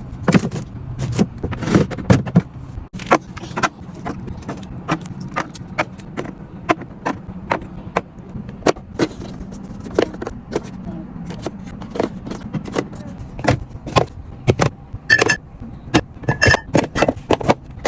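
Irregular clicks, taps and clatters of containers and packaged groceries being handled and set in place, over a steady low hum.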